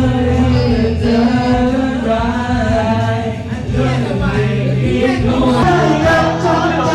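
Music with a voice singing: held, wavering sung notes over a steady bass accompaniment.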